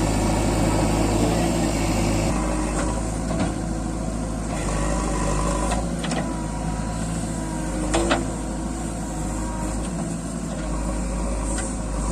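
Heavy diesel engine running steadily. Its sound drops a little about two seconds in, and a few sharp knocks come later.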